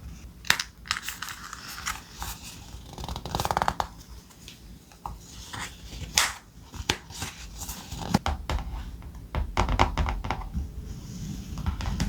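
Thick paper being handled: rustling, crinkling and sharp taps and clicks as pieces are moved and pressed down. About three seconds in there is a brief rapid rasp.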